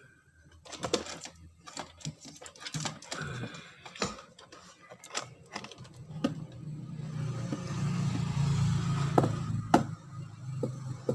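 Clicks and knocks of wires and parts being handled, then from about six seconds in a low motor hum builds up and holds steady: the Sharp washing machine's newly fitted spin motor running up.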